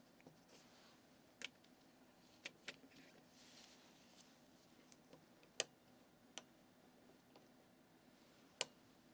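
Faint, irregular light clicks of small metal dental surgical instruments being handled and fitted together, a surgical torque wrench and its connector, about nine clicks spread unevenly over a near-silent background.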